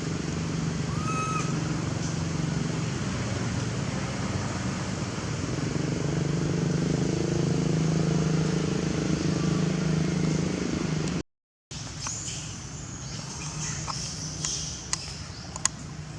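A steady low motor hum that cuts off suddenly about eleven seconds in, followed by scattered light clicks and brief high chirps.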